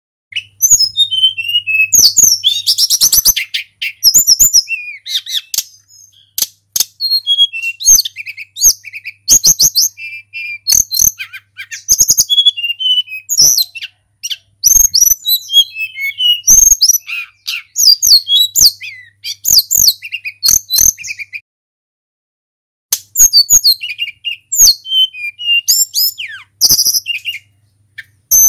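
Tledekan gunung flycatcher singing a long, fast run of varied, high whistled phrases, with a break of about a second and a half shortly after the middle. Sharp clicks are scattered between the phrases.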